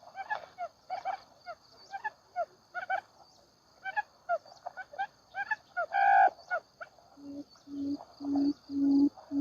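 Wild quail calling in quick, short chirping notes, with a steady high insect drone behind. About seven seconds in, music begins: a low note repeating about twice a second, growing louder.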